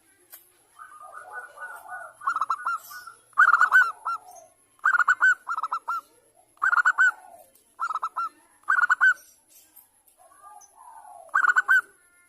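Female zebra dove (perkutut) calling in short bursts of rapid cooing notes, about seven bursts a second or two apart beginning around two seconds in, the call used to draw male perkutut into calling back. Fainter warbling between some bursts.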